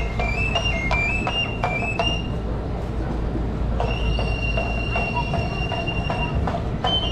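Traditional flute-and-drum music: a high flute plays a short phrase climbing in small steps, repeated three times, then holds one long high note for about two and a half seconds, over regular drum beats.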